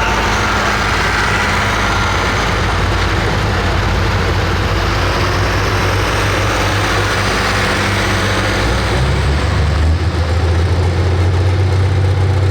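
Turbocharged diesel engine of a pro stock pulling tractor running loud and steady. About nine seconds in, the sound shifts to a deeper, stronger low drone as the higher noise fades.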